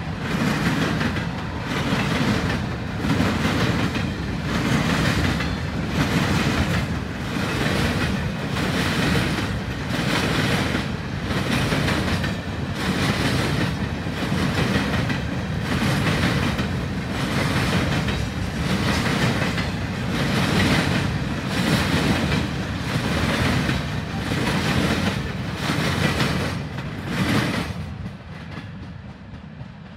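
CSX freight train of Coke Express cars rolling past, its wheels clattering over the track in a steady rhythm about once a second. The clatter fades near the end as the last car goes by.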